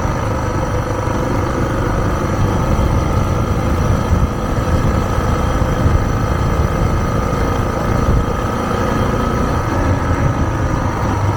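Suzuki DR650's single-cylinder four-stroke engine running steadily as the motorcycle is ridden.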